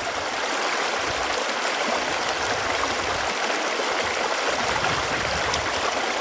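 Water running steadily in a stream, an even rushing with small gurgles.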